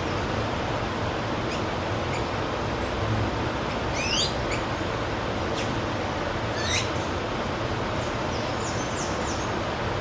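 Wild birds calling: two quick sweeping calls about four and seven seconds in, then a brief run of short high chirps near the end, over a steady rushing background noise.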